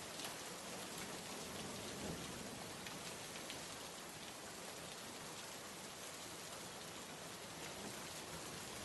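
Steady rain ambience: a continuous even hiss of rainfall with scattered light drop ticks.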